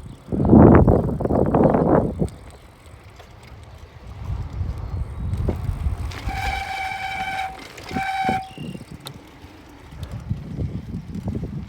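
Wind buffeting the microphone of a moving bicycle ride. About six seconds in, a horn sounds twice, one long blast and then a short one, on a single steady pitch.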